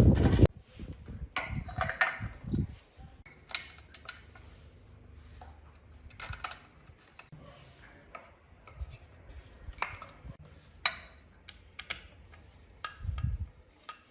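Hand tools and small metal parts clicking and clinking in scattered light taps. A loud low rumble cuts off about half a second in.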